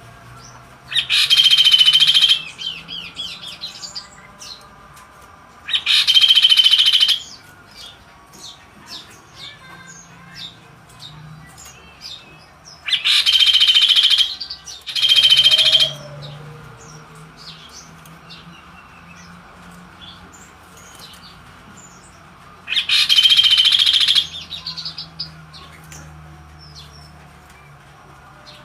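A kaso-kaso bird singing in full voice: five loud calls, each about a second or a second and a half long, the third and fourth close together, with soft short chirps in between.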